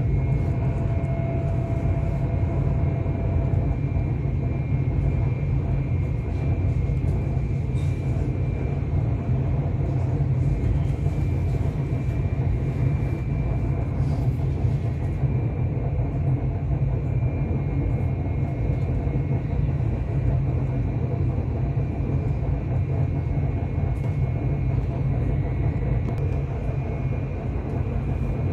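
Passenger train in motion heard from inside the carriage: a steady low rumble of the wheels and running gear on the track, with a faint high whine above it.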